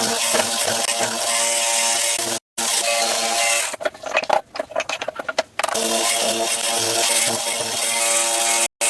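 A power tool running steadily on wood at an even pitch, cut off abruptly twice. In the middle, for about two seconds, it gives way to irregular knocks and rattles.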